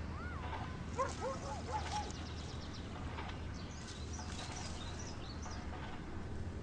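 Birds chirping and calling in short, arching notes, over a steady low hum.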